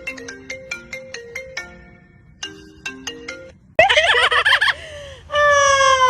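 A phone ringtone melody of short, clean marimba-like notes, about three a second. After a short break it gives way to a loud, sudden warbling squawk and then a long falling whistle, typical of a pet parrot.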